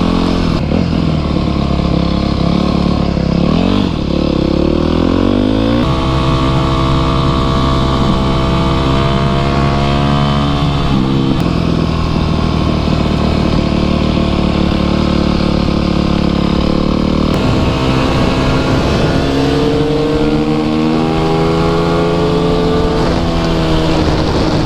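Dirt bike engine, a Yamaha YZ250F single-cylinder four-stroke, running under load as the bike is ridden. Its pitch climbs about four to six seconds in as it accelerates, then holds and dips and rises again with the throttle.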